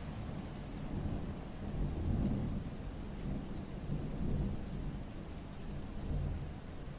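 Steady rain with a low rumble underneath that swells and eases, loudest about two and four seconds in.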